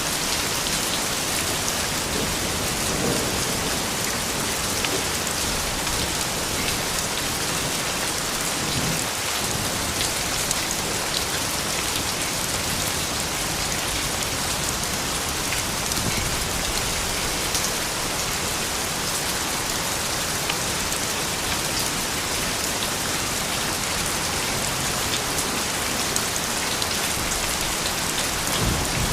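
Steady rain falling on surfaces, an even hiss with fine drop ticks. A few faint low rumbles rise under it, about three and nine seconds in.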